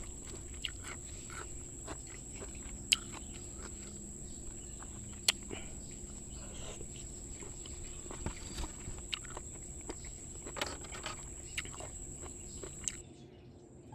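Scattered sharp clicks and small irregular noises of snails being eaten straight out of their shells, over a steady faint hum.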